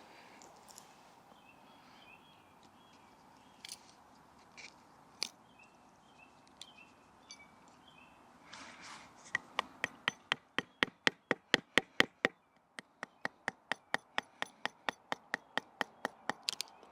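A wooden baton tapping the spine of a Victorinox Ranger Swiss Army knife to split a piece of wood: a few scattered knocks, then from about halfway a quick, even run of sharp strikes at about four a second, with one short pause.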